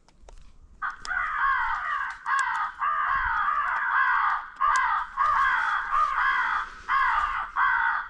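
Crow caws: a rapid, nearly unbroken run of loud, harsh calls, each dropping in pitch, starting about a second in.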